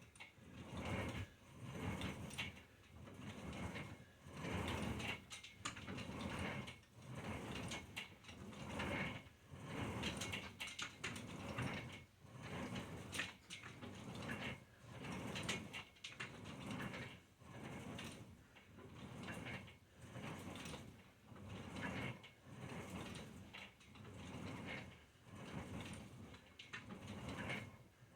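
Exercise equipment creaking and clicking rhythmically through a set of repetitions, one swell of mechanical noise about every second and a half.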